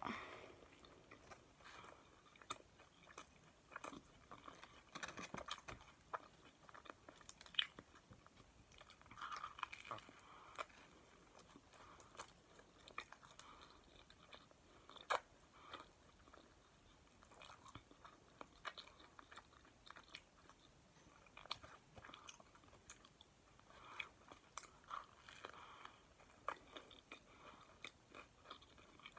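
Faint close-up chewing and biting of a Subway Italian BMT sandwich on a soft roll: scattered short mouth clicks and smacks, coming in clusters with pauses between.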